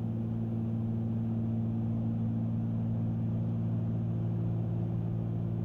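Steady drone of a Cessna 310Q's two piston engines and propellers in cruise, heard in the cabin as a constant low hum with several fixed tones and no change in pitch.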